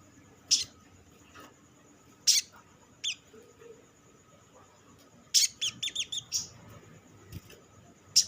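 Olive-backed sunbird calling: single sharp, high chips a second or two apart, with a quick run of about six notes a little past the middle.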